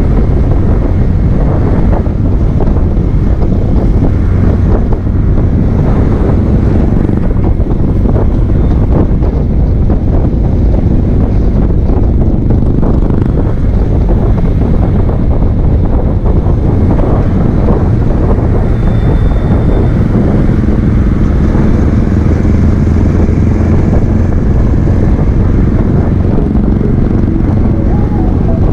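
Heavy wind buffeting on the microphone over a steadily running engine.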